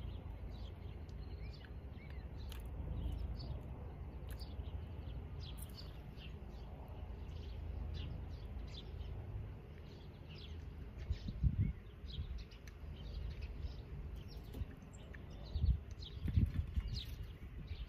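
Songbirds chirping: many short high chirps scattered throughout, over a steady low rumble of outdoor background noise. A few low thumps come about eleven seconds in and again near the end.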